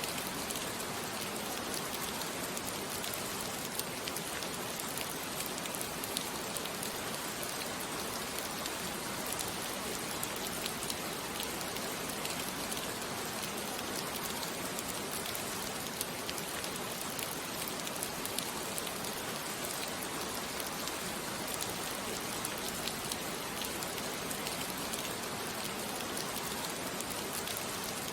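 Steady rain falling on a surface, a constant even hiss with many small drop ticks.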